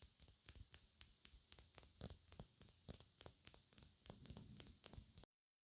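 ASMR brush strokes against the microphone: a quick series of faint, crisp, crackly strokes, about four or five a second. They cut off suddenly near the end.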